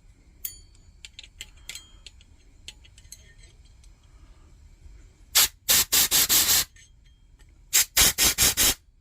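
Compressed-air blow gun fired in quick short blasts of hiss, two runs of several bursts each, starting about halfway through, blowing through a Coleman lantern's burner passage to clear out any blockage such as spider nests. Faint clicks of parts being handled come before.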